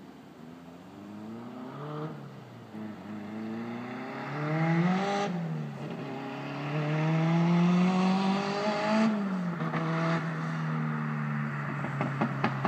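Nissan S14's turbocharged engine running with an open downpipe. Its revs climb and drop back three times as it gets louder, then it holds a steady note for the last couple of seconds. A run of sharp clicks starts near the end.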